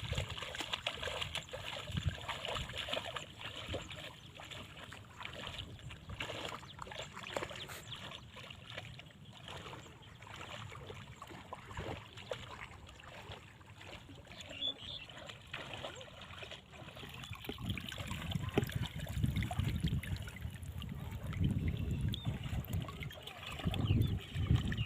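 Irregular water sloshing and splashing with small knocks, and louder low rumbling in the last several seconds.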